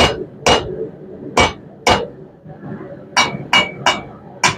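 Blacksmith's hammer striking half-inch round steel bar on an anvil: about eight sharp, ringing blows at an uneven pace. The blows are hammering a doubled-over bend down until the two sides touch.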